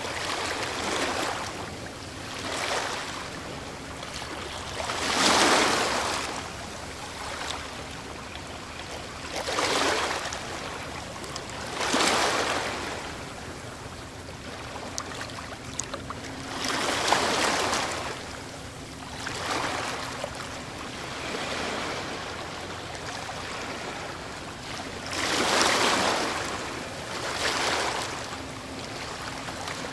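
Ocean waves breaking on a shore, surging in repeatedly every few seconds over a steady wash of surf.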